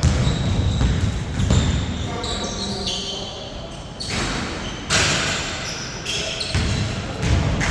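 A basketball bouncing on a hard court in a large, echoing hall: several irregular thuds rather than a steady dribble. Short high squeaks come in the middle, and players' voices are heard.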